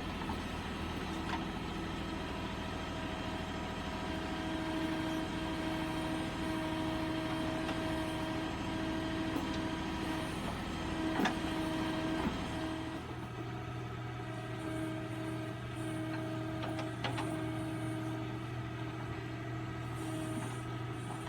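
Tractor diesel engine running steadily while working a backhoe loader, its note shifting about thirteen seconds in, with a few short knocks.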